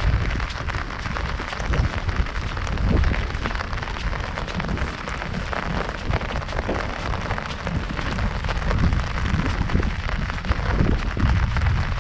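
Heavy rain pattering steadily on an umbrella overhead, a dense crackle of drops striking the canopy, over an uneven low rumble.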